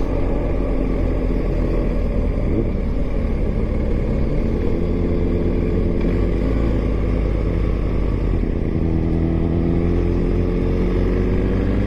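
BMW GS motorcycle cruising at steady speed, its engine note holding level over a constant low wind rumble. The engine tone becomes clearer about halfway through.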